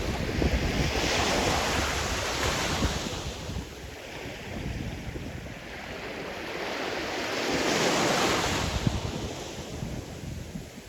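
Sea waves breaking and washing onto the shore: two swells of surf hiss, one around the first few seconds and another past the middle, each fading as the wash recedes. Wind buffets the microphone with a low rumble underneath.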